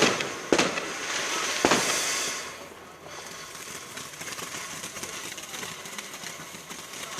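Fireworks exploding: three sharp bangs in the first two seconds over a hissing crackle, which fades to fainter, scattered crackling.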